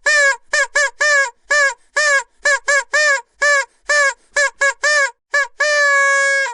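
Vuvuzela blown in a rapid string of short toots, each with a quick scoop in pitch, then one held note of about a second near the end.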